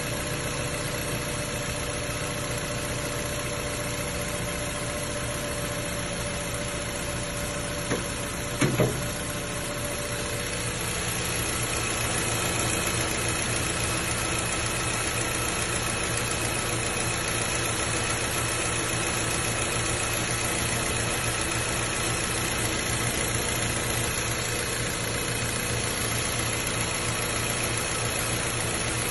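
Mazda DOHC 16-valve four-cylinder engine with variable valve timing idling steadily, heard close up in the open engine bay. A few sharp knocks come about eight to nine seconds in, and the idle runs a little louder from about eleven seconds in.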